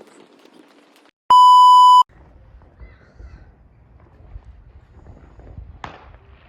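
A loud, steady electronic bleep tone edited into the soundtrack, lasting under a second about a second in, with a moment of dead silence just before it. Around it, only faint background noise and a low rumble.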